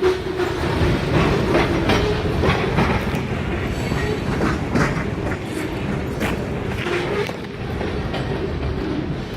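Freight train rolling past, its wheels clacking over rail joints in a steady run of clicks over a low rumble, with a faint wheel squeal near the start and again about seven seconds in.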